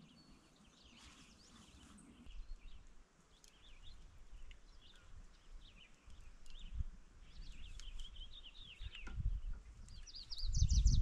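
Small birds chirping and calling repeatedly, the calls coming thicker near the end, with a low rumble starting near the end.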